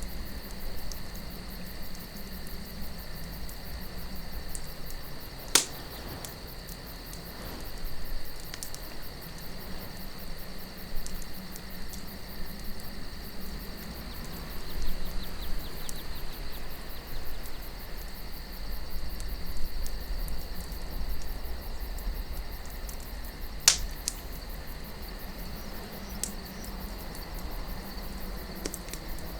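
Wood campfire crackling with scattered small ticks and two sharp, loud pops, one about six seconds in and one about two-thirds of the way through, over steady cricket chirring and a low wind rumble.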